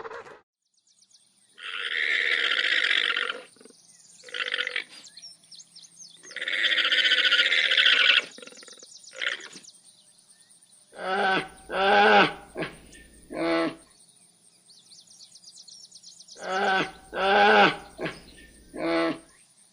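A series of animal calls. First come two long, rough, rasping calls with a few short ones between. Then come two groups of about four short pitched calls each.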